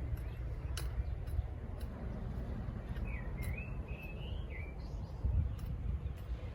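A bird calls once, a wavering, warbling phrase lasting about a second and a half midway, over a steady low rumble.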